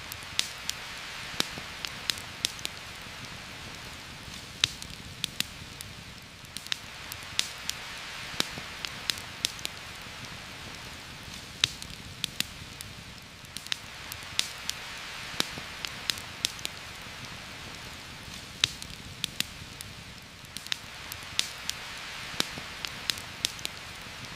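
Heavy rain hissing steadily, swelling and easing every several seconds, with frequent sharp crackling pops scattered irregularly over it.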